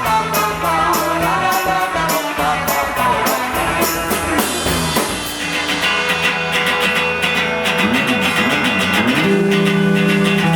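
Live rock band playing an instrumental break between verses: guitars over drums. The drumming drops back about halfway, and near the end a note wavers in pitch, then is held.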